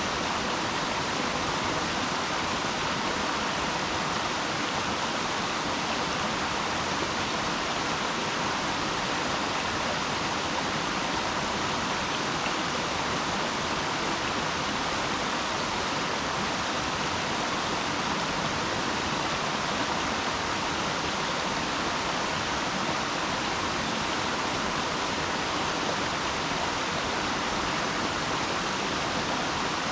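Flowing water rushing steadily, an even hiss that does not change.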